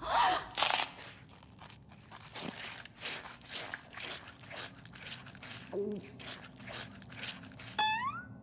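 Cartoon sound effect of an apple being crunched and chewed, about two crunches a second. It ends with a short rising whistle-like tone. A louder burst of rustling noise comes in the first second.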